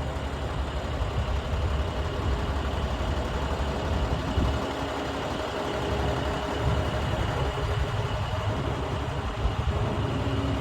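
Engine of heavy equipment idling steadily, a low rumble with a steady hum over it.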